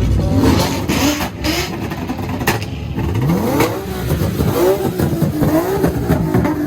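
Car engine revving hard at a car meet, its pitch climbing steeply and then rising and falling several times as the throttle is blipped.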